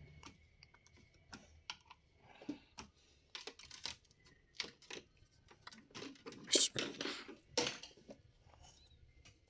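Scattered small clicks and taps of laptop parts being handled as a Dell laptop's hard drive is taken out, with two louder clatters about six and a half and seven and a half seconds in.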